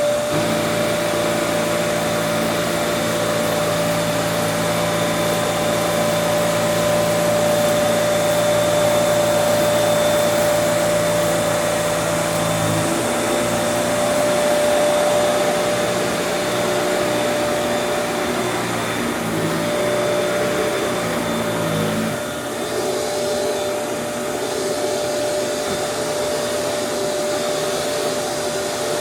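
Kenmore Elite upright vacuum cleaner's inducer motor running steadily with a constant whine over the rush of air. The lower hum changes pitch about 13 seconds in and again about 22 seconds in, as the load on the machine shifts.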